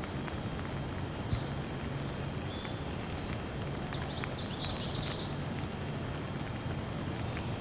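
Steady rain hiss with birds chirping over it, a quick cluster of high chirps about four to five seconds in.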